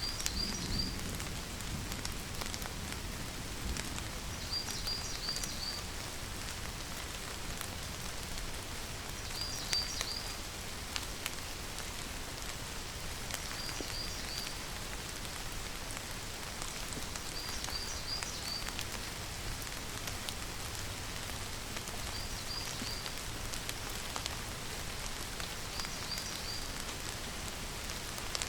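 Steady rain falling, a continuous even patter. Over it, a short high call of three or four quick chirps repeats about every four seconds.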